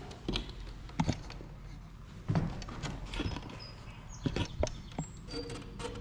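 Scattered light knocks and clicks of wooden sash-window parts being handled and fitted back in place, with a few faint short high squeaks.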